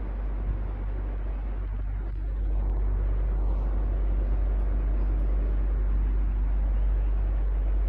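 Electric fan running steadily: a low motor hum under an even rush of air, growing a little louder about two and a half seconds in.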